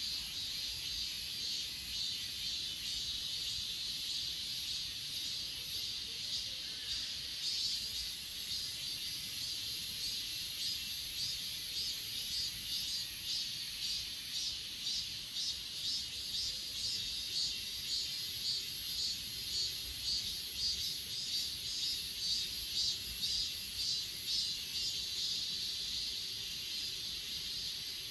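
A dense chorus of grass insects (crickets and katydids) chirping in fast, high-pitched pulses, a little louder from about eight seconds in.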